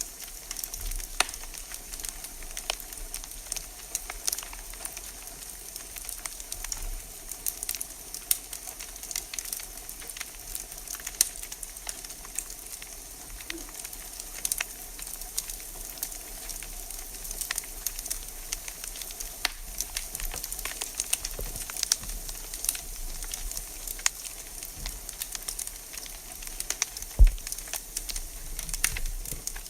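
Wood fire crackling in a fireplace: a steady hiss with many irregular sharp snaps and pops, and one louder pop near the end.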